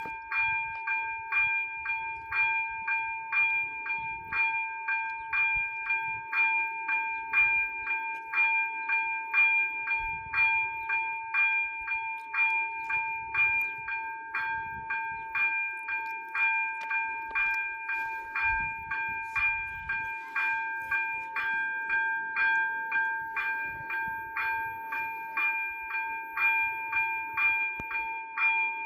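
Level-crossing warning bells (ZV-02 electronic bells) ringing steadily, about two strikes a second, each a clear ringing tone: the crossing is in its warning phase for an approaching train.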